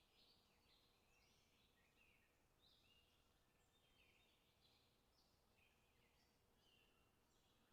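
Near silence, with very faint bird chirps twittering on and off throughout.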